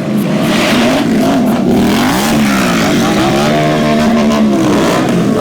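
Indian Scout Bobber V-twin motorcycle engines revving, the engine pitch climbing and dropping again and again.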